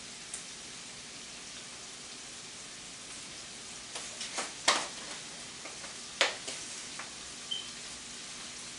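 Bacon, onions and garlic sizzling steadily in a hot frying pan, with a few sharp clinks and taps between about four and seven seconds in.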